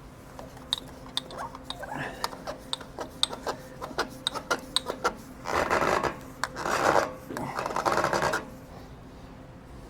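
Hand work on a tractor's fuel filter and bowl: a run of light clicks and taps, then three longer rasping rubs of about a second each.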